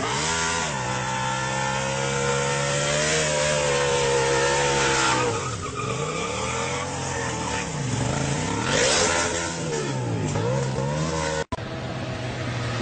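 Motorcycle engine running at high revs, its pitch dipping and climbing back about three times as the throttle is eased and reopened. An abrupt cut near the end gives way to a steadier engine sound.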